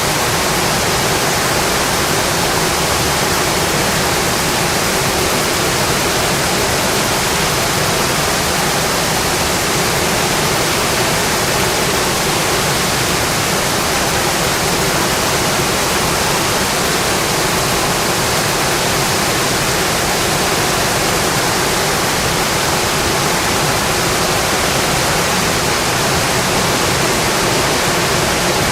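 Steady rain, a dense even hiss that does not change.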